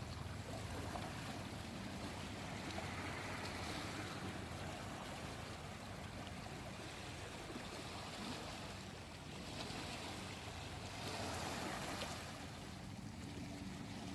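Sea waves washing in, swelling twice, over a steady low hum.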